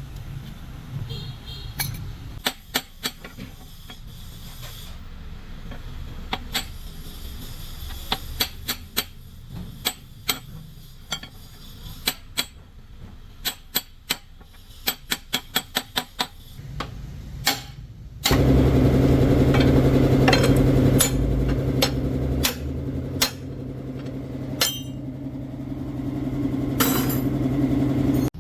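Irregular sharp knocks and taps on metal parts, some in quick runs. About 18 s in, a motor starts abruptly and runs steadily at one pitch, with a few more knocks over it.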